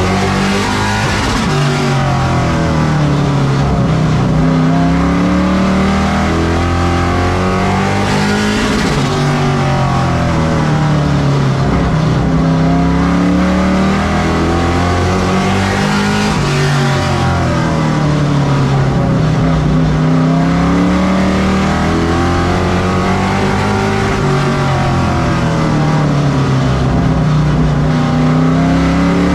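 Race truck engine running hard, its pitch repeatedly dropping and then climbing again, several times, as the driver lifts for the turns and accelerates down the straights while lapping an oval track.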